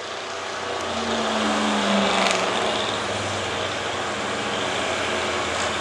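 1985 Chevrolet gas 4x4 pulling truck's engine running hard at full throttle as it drags the weight-transfer sled down the track, a loud steady roar whose pitch sags a little over the first couple of seconds under the load.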